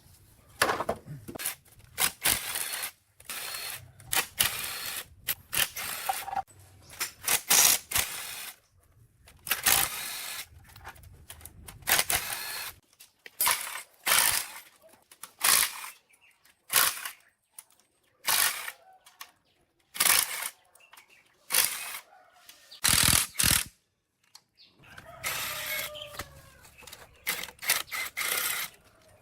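Workshop hand-tool work on machine parts: a long run of short, irregular noisy bursts with brief gaps between them.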